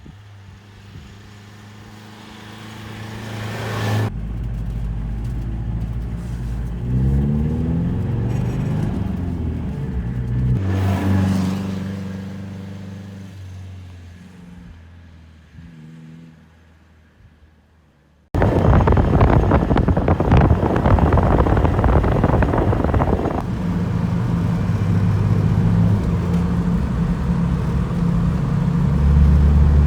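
Diesel engine of a Toyota Blizzard 4x4 driving on snow. The engine builds up and climbs in pitch, peaks, then fades away. It cuts suddenly to a louder, steady run with road and wind noise.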